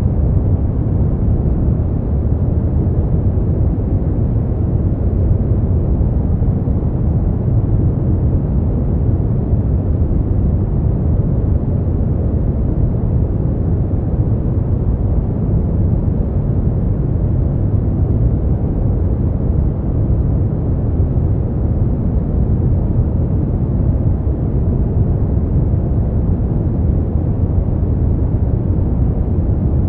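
Steady, unchanging noise for sleep, sold as white noise but deep and muffled, a low rumbling hiss with little treble. No other event stands out.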